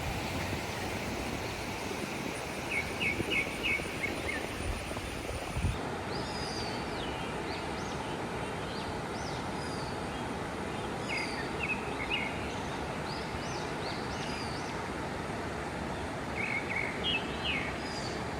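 Birds calling over a steady outdoor noise bed: a quick run of chirps, then after an abrupt change a little before six seconds, repeated short high calls that sweep downward, with a cluster of chirps near the end.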